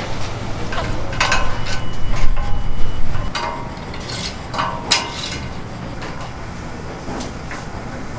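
Kitchen clatter: scattered metal knocks and clanks of pans and utensils over a low rumble that is loudest in the first three seconds or so.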